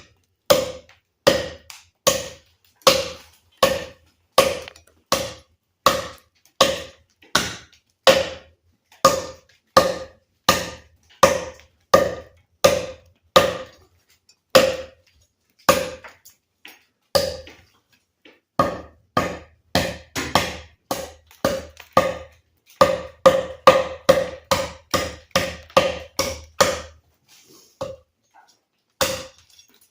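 TOPS El Chete chopper knife chopping into a thick piece of cherry wood, about forty blows in a steady rhythm, coming faster in a run in the second half. The blade is not biting in hard, as it needs sharpening.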